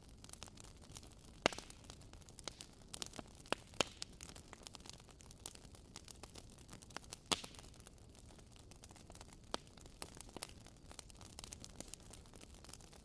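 Wood fire crackling in a fireplace: a faint steady hiss with irregular snaps and pops, the sharpest about a second and a half in and again around the middle.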